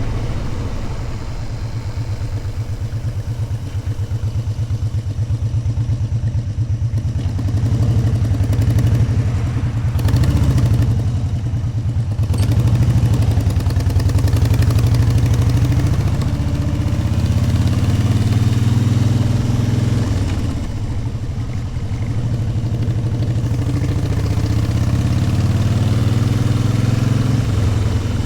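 Motorcycle engine running while riding, its pitch climbing and dropping several times as the bike speeds up and eases off, with a steady rush of wind noise.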